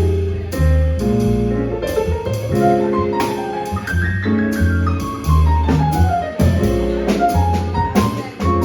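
A small jazz group playing live, with drum kit, piano and bass. A walking bass line sits under struck cymbals, and a melodic run climbs and then steps back down in the middle.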